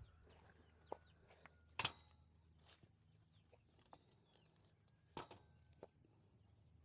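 Faint clucks and chirps from poultry in a pen, broken by a few sharp knocks, the loudest about two seconds in and another about five seconds in.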